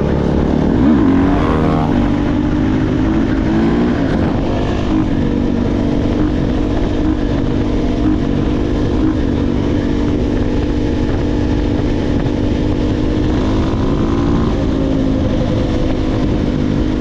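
Dirt bike engine running under way. Its pitch rises and falls with the throttle in the first few seconds, then holds fairly steady at cruising speed.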